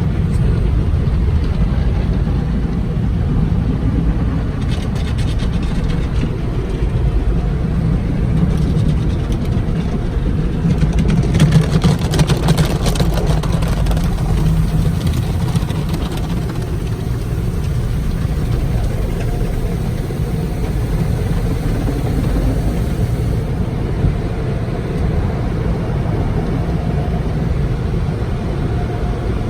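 Car wash running over a car: a steady low rumble of machinery with a hiss of water spray, loudest about twelve seconds in.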